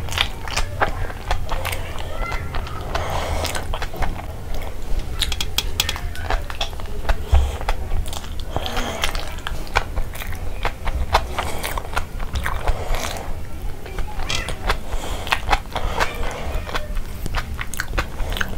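Close-miked eating of a chicken burger by hand: wet chewing, many lip smacks and clicks, and finger licking.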